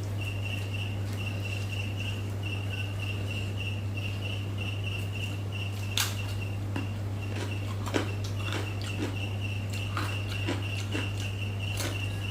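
Eating sounds: scattered sharp clicks and smacks of chewing and of fingers in food, the loudest about six and eight seconds in and more frequent after that. Under them run a steady low hum and a high chirp that pulses about three times a second.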